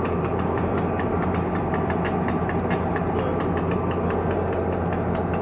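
Excursion train's engine running steadily with a low hum and a rapid, regular ticking, about six ticks a second.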